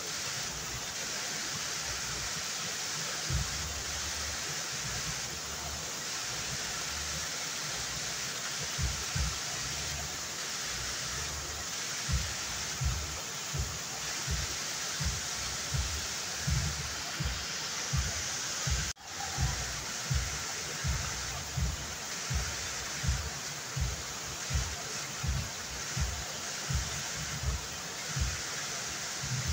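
Waterfall rushing steadily, with frequent low thumps throughout. The sound drops out briefly about two-thirds of the way through.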